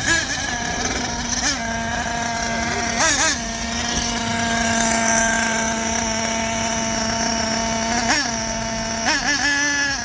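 Radio-controlled car's motor running with a steady pitched whine, wavering briefly up and down a few times as the throttle changes, mostly near the start and again near the end.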